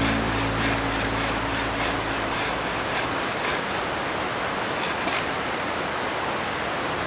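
Rushing river, a steady even rush of water. The tail of background music fades out in the first couple of seconds.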